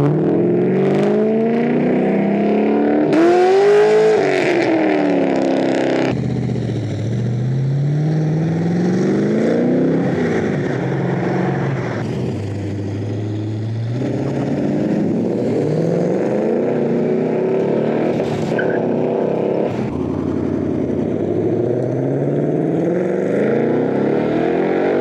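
Performance cars accelerating away one after another, each engine revving up with a rising pitch, dropping back and rising again as it shifts gear. The sound changes abruptly several times as one car's run gives way to the next.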